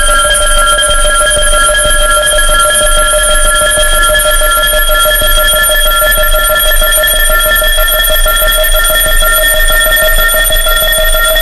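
A synthesized frequency track: several pure electronic tones sounding together as a sustained, unchanging chord. Some of the tones drift very slowly upward in pitch.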